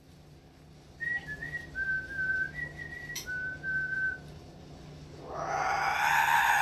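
A talking bird whistling a short run of clear, pure notes, stepping between a few pitches, with a single click partway through. Near the end a loud, drawn-out call with a rich, harsh tone rises in.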